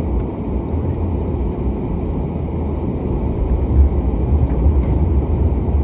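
Vehicle engine running steadily, heard from inside the cab as a low, even rumble.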